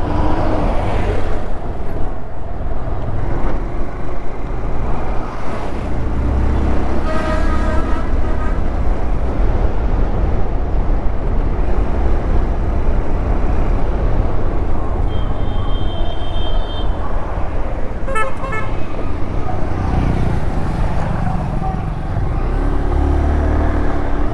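Riding noise on a Honda Hornet motorcycle: steady wind and road rumble. Vehicle horns honk three times, a lower one about seven seconds in and two higher ones around fifteen and eighteen seconds.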